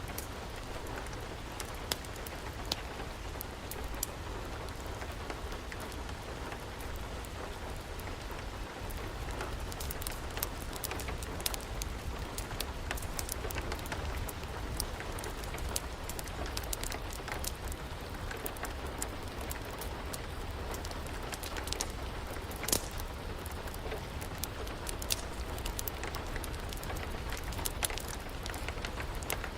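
Steady rain hiss mixed with a crackling wood fire: sharp pops and clicks come at irregular moments throughout, the loudest a little past three-quarters of the way through.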